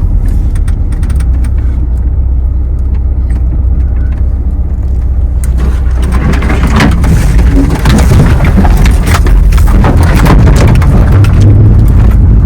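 1991 Volkswagen Vanagon Syncro running with a steady low rumble as it sets off. About halfway in, a louder crunching crackle joins it, fitting tyres rolling over frozen snow and ice.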